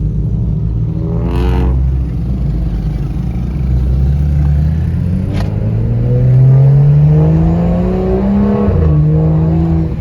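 Car engine accelerating hard, its pitch climbing steadily for several seconds and then dropping sharply near the end at a gear change.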